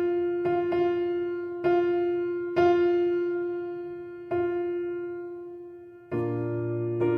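Background music: a solo piano playing slow single notes, mostly on one repeated pitch, each left to ring and fade, then a fuller chord with a low bass note about six seconds in.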